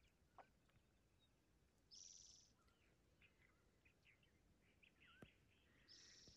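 Faint birds calling: scattered short chirps and whistles, with two brief high trills about four seconds apart.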